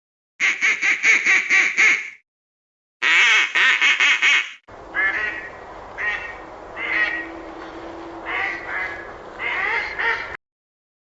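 Ducks quacking in quick runs of calls, in separate takes cut together with short silences between. The last take is noisier, with scattered quacks over background hiss.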